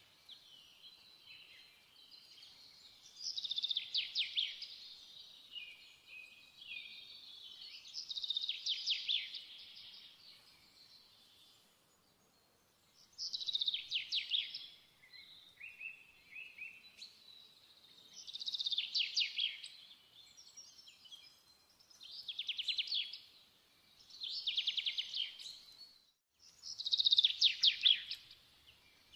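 A songbird singing: short, rapid trilled phrases, each about a second and a half long, repeating every four to five seconds.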